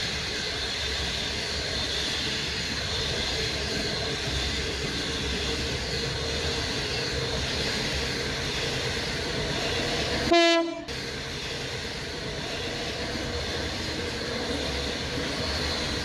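A train running steadily, with one short, loud horn blast about ten seconds in.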